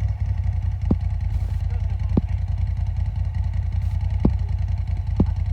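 Off-road vehicle engine running steadily at a low pitch, with a few brief sharp knocks scattered through.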